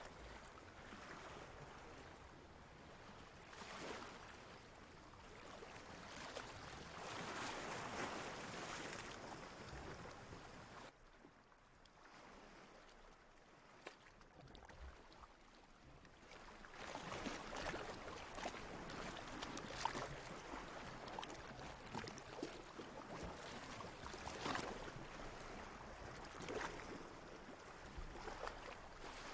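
Water lapping and sloshing in gentle surges, with many small splashes. It eases off for a few seconds around the middle, then builds up again.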